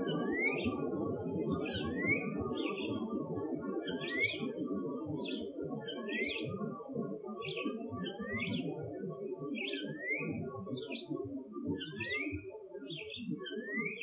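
A bird-like call: a short note sliding upward, repeated every second or two, with quick higher chirps in between, over a dense low crackling noise.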